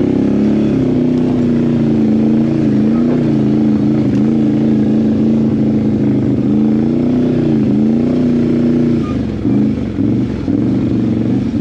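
ATV engine running under throttle on a trail ride, its note rising and falling a little with the throttle. About nine seconds in the throttle is eased and the note turns choppy and uneven.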